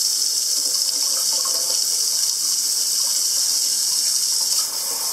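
Kitchen sink faucet running steadily, water splashing into the basin in an even hiss: the first water through the newly plumbed sink, run to test it for leaks.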